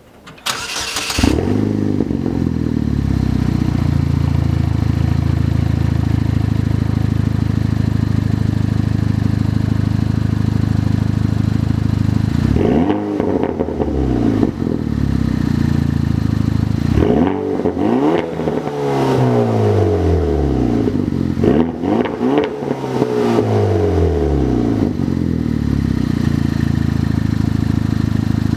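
2009 Chevrolet Cobalt SS's turbocharged 2.0-litre four-cylinder starting up about a second in and settling into a steady idle. It is then revved several times: a single rev near the middle and two pairs of quick revs later, each rising and falling in pitch, through the exhaust.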